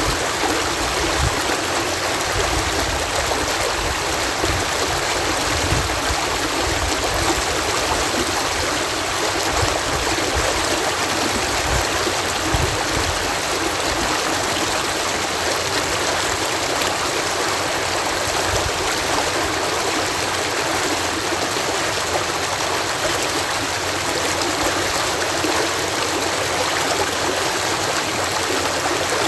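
Water pouring steadily over a canal lock, a continuous even rushing with no pauses.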